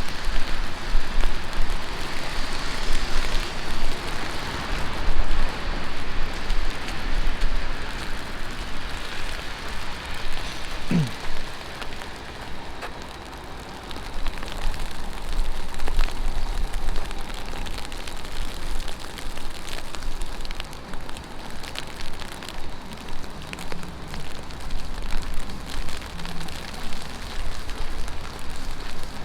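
Heavy rain falling on the street, a steady hiss with many sharp, close raindrop hits. A short falling tone cuts through it about eleven seconds in.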